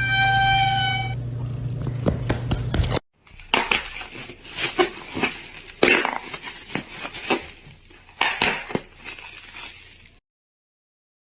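A short steady tone over a low hum, then a sudden cut to a run of irregular clattering knocks and clinks. The clatter stops abruptly about a second before the end.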